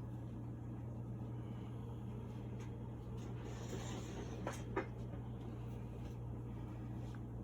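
Quiet room tone: a steady low hum with faint background noise, broken by two small light clicks close together about four and a half seconds in.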